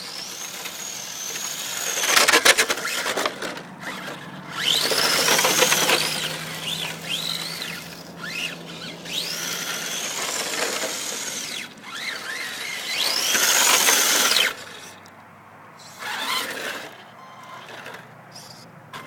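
Electric RC drift car's motor whining up in pitch and falling back in about five bursts of throttle, with a rushing scrub of its tyres sliding on pavement and a few sharp clicks.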